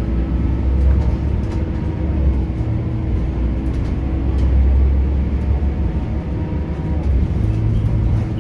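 Diesel engine of a Scania K230UB city bus, with its ZF automatic gearbox, running steadily as the bus drives, a deep continuous drone.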